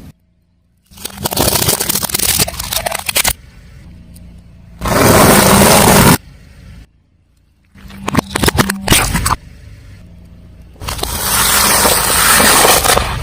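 Car tyre crushing crunchy objects: dense crackling and snapping, in separate bursts about a second in and about eight seconds in. These alternate with stretches of steady car and tyre rolling noise, and brief silences fall between the takes.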